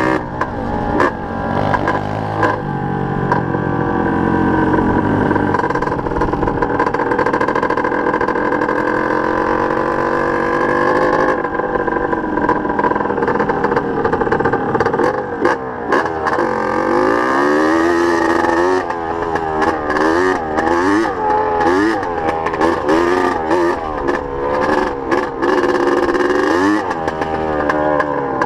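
Dirt bike engine being ridden, revving up and down again and again, with repeated rises and dips in pitch in the second half and scattered knocks and clatter.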